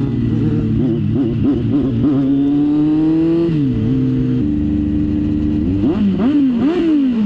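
Kawasaki Z900's inline-four engine being revved in quick throttle blips while riding, then pulling up smoothly in pitch through a gear and dropping at a shift about three and a half seconds in, before a few more quick revs near the end.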